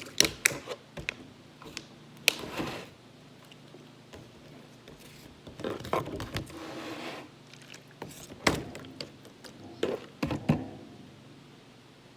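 Bottles being shuffled and set down on a tabletop: scattered knocks and clunks in short clusters, with some sliding in between.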